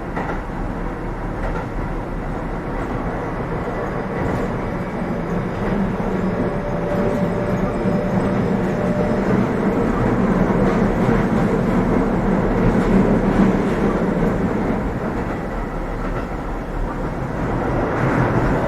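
Keio 7000 series electric train running at speed, heard from inside the passenger car: a steady rumble of wheels on rail and car-body noise. It grows louder toward the middle, eases slightly, then swells again near the end.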